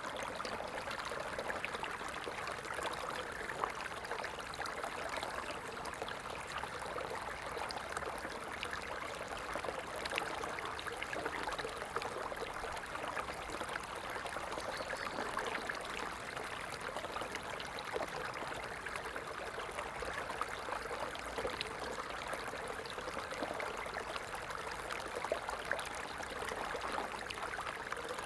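Stream water flowing and trickling over stones in a steady, unbroken rush.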